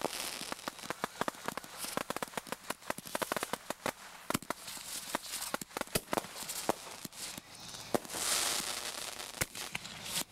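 Consumer ground fireworks going off: a dense run of rapid, irregular crackling pops, with a stretch of hissing about eight seconds in.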